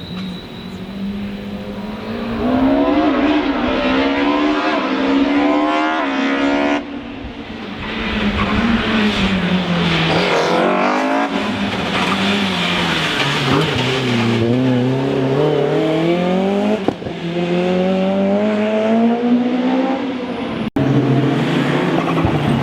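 Rally car engine run hard, its pitch climbing again and again through the gears with sharp drops at the shifts, and falling away under braking before rising once more.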